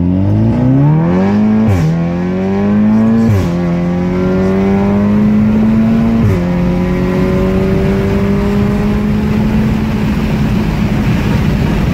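Volkswagen Golf R's turbocharged 2.0-litre four-cylinder with an IPE titanium exhaust under full-throttle acceleration, heard from inside the cabin. The engine note rises through the gears with three quick upshifts, near 2, 3.5 and 6 seconds in, each a sudden drop in pitch, then a long slow climb in a high gear.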